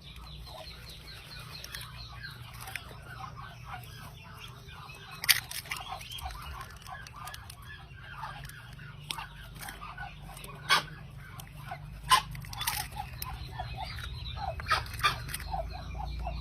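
A group of Muscovy ducklings peeping continuously in many short, quick calls. A few sharp clicks stand out above the peeping, about five, eleven and twelve seconds in.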